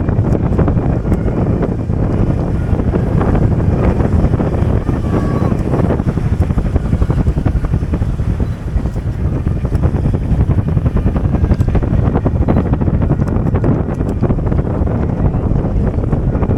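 Wind buffeting the microphone: a loud, continuous, gusty low rumble.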